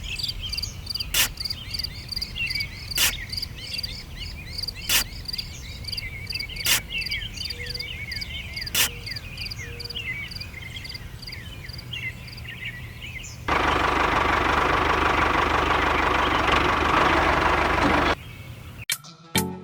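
A chorus of crickets and frogs: a fast pulsing trill with chirps over it and a sharp click about every two seconds. About two-thirds of the way through this gives way to a loud, steady rushing noise lasting roughly four to five seconds, which then stops abruptly.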